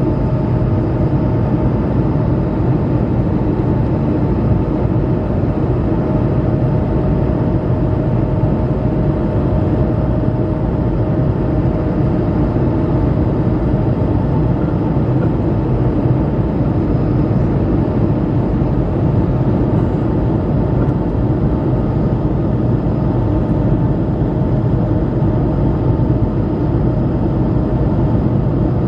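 Steady cabin noise inside an Airbus A220-300: the drone of its Pratt & Whitney PW1500G geared turbofans and the airflow, with a couple of faint steady tones over it.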